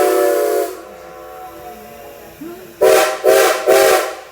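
Steam locomotive whistle sounding a chord over a hiss of steam: the end of a long blast that stops about a second in, then three short blasts near the end.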